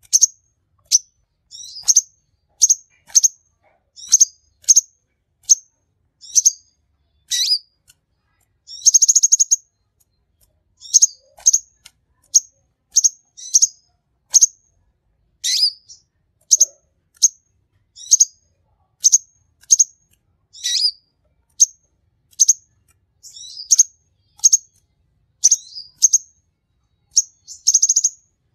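Sunbird singing: a steady run of short, high, thin chirps, one or two a second. A fast rattling trill comes about nine seconds in and another near the end.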